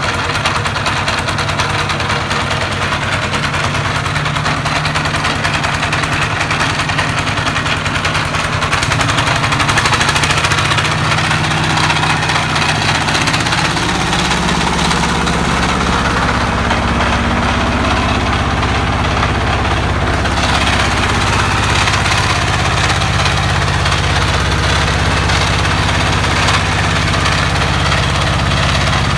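Engine running steadily; its note changes about ten to fourteen seconds in, then settles and runs on evenly.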